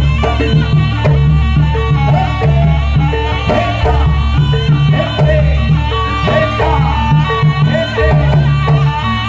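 Jaranan accompaniment music: a traditional East Javanese ensemble of drums and gongs with a melody line over a steady, pulsing low beat.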